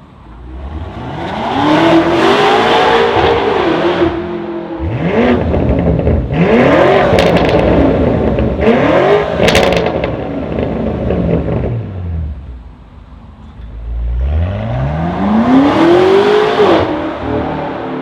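BMW G99 M5 Touring's twin-turbo V8 through an iPE catback exhaust, revving up in several surges and dropping back, with a few sharp pops around the middle. It surges once more near the end and falls away.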